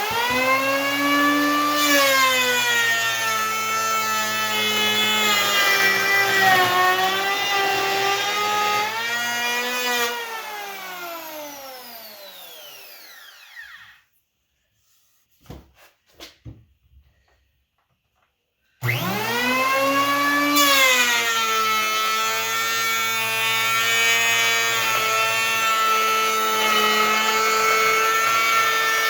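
WEN 3-1/4-inch electric hand planer running, its motor pitch dipping and recovering as the blades cut into a paint-spotted board. About ten seconds in it is switched off and winds down over a few seconds. After a few light knocks it starts up again about two-thirds of the way through and keeps running.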